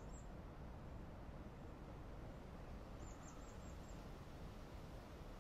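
Faint outdoor ambience with a small bird's thin, very high calls: a quick run of about six short notes about three seconds in.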